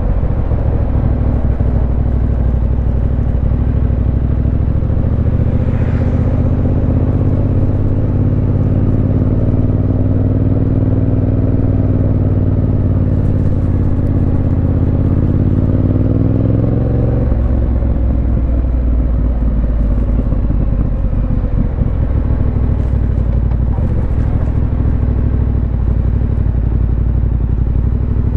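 Yamaha Ténéré 700's 689 cc parallel-twin engine running under way, its note climbing slowly in pitch through the middle and dropping suddenly a little past halfway, then holding steady.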